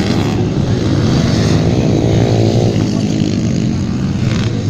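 150cc motocross motorcycles racing, their engines revving up and down with the throttle, the pitch rising and falling in the middle.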